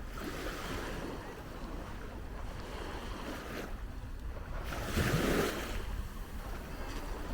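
Waves washing onto a beach, with wind on the microphone. There is one louder surge about five seconds in.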